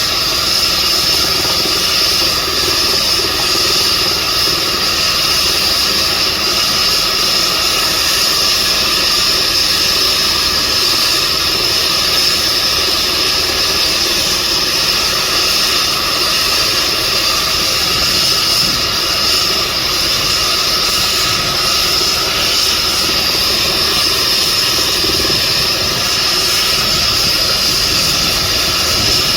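Air ambulance helicopter running steadily on the ground, a high turbine whine of several steady tones over engine and rotor noise.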